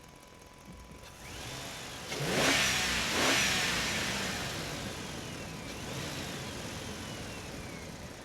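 Road vehicles driving past: one passes loudly a couple of seconds in, its pitch dropping as it goes by, and a quieter second one passes later, over a steady faint hum.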